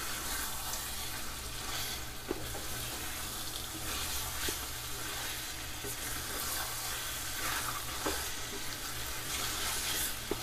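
Mutton and ground spices sizzling steadily in oil in a kadhai while being stirred with a spatula, with a few light knocks.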